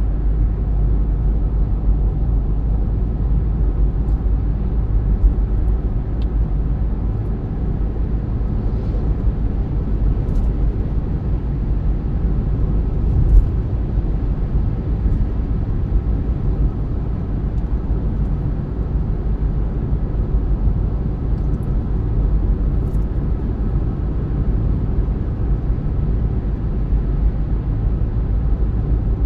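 A car driving along at a steady pace: a continuous low rumble of road and engine noise.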